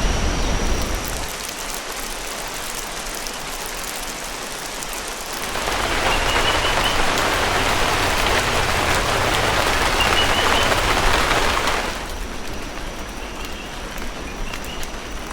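Steady rain falling in a rainforest, with a louder, heavier stretch of about six seconds in the middle before it drops back. Faint short high chirps come through now and then.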